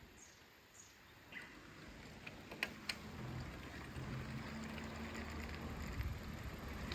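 A few faint high chirps, then two sharp clicks about two and a half seconds in, followed by a low rumble with a steady hum that grows louder, like an engine.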